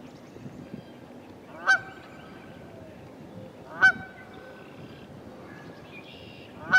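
Geese honking: three loud honks about two seconds apart, the last right at the end.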